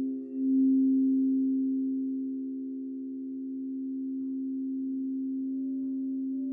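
Crystal singing bowls sustaining several overlapping steady tones, the loudness dipping and swelling slowly as the tones beat against each other; a higher bowl tone comes in faintly near the end.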